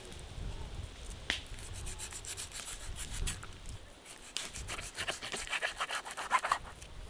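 Quick rasping strokes on wood: scattered scrapes at first, then a fast run of strokes about four seconds in.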